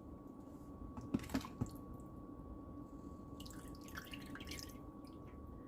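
A spoon scooping leftover hominy soup out of its container: a few sharp knocks a little over a second in, then soft wet drips and splats. A faint steady hum runs underneath.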